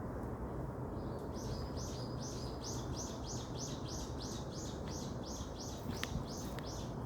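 A bird singing a long series of evenly repeated high notes, about three a second, over a steady low rumble, with a few sharp clicks near the end.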